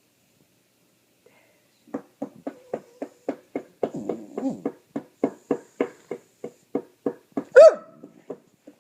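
A dog making rapid, rhythmic huffing noises, about three or four a second, with one louder short squeal near the end. These are the odd noises that worry the owner.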